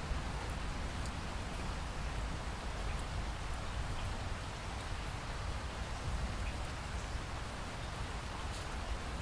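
Steady rainfall with scattered small drop ticks over a constant low rumble.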